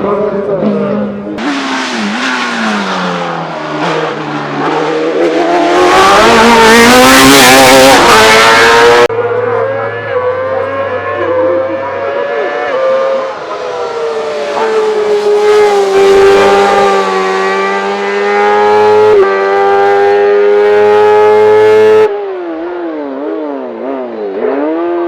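Race car engines at full throttle, several cars one after another with abrupt switches between them, engine pitch climbing and dropping. The loudest is a close, noisy pass from about six to nine seconds in.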